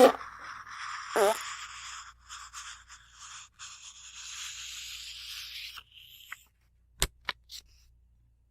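A short, wobbling fart right at the start and a second one about a second in, then the dry rustle of book pages being rubbed and turned for about five seconds. Three sharp ticks follow near the end.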